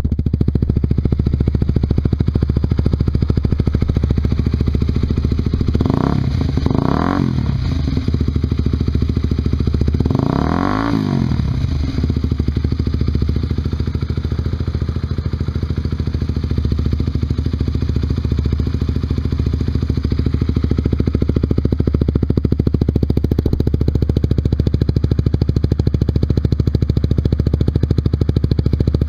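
Honda CBR150R's single-cylinder engine running through a Yoshimura short exhaust while riding, a steady note with two short swells that rise and fall in pitch, about six and eleven seconds in.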